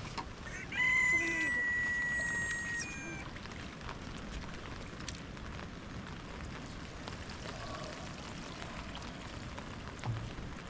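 Steady rain falling. About a second in, a loud high-pitched sound is held for about two seconds, and there is a short low thump near the end.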